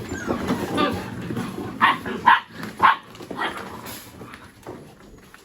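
Mini Goldendoodle puppies barking during play: four short, sharp barks in quick succession about two seconds in.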